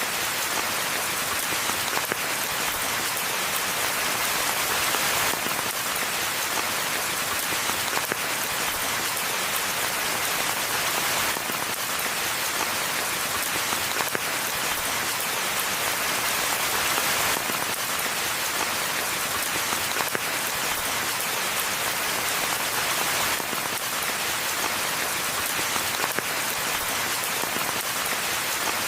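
Steady rain falling on a forest path and foliage, a dense hiss of many individual drops pattering without let-up.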